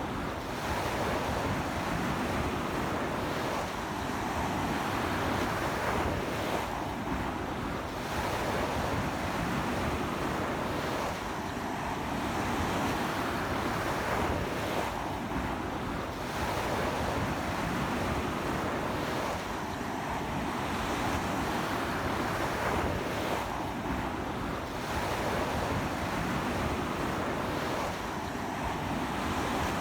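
Sea surf breaking on a beach in strong wind, a continuous wash of noise that eases slightly about every four seconds.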